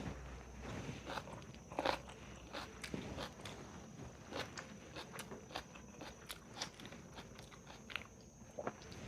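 A person biting and chewing crunchy food close to the microphone: irregular crisp crunches, several a second, with softer chewing between.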